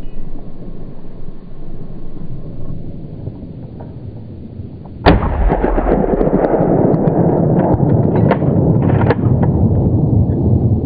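A single hunting rifle shot about five seconds in. It is followed by loud, continuous rushing noise with scattered clicks.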